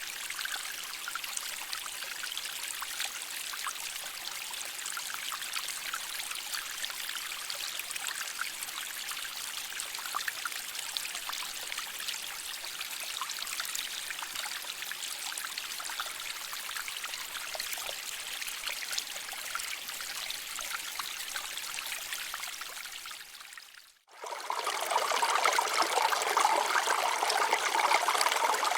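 Stream water flowing and trickling over rocks in a steady rush. About 24 s in it fades out briefly, then a louder stretch of flowing water begins.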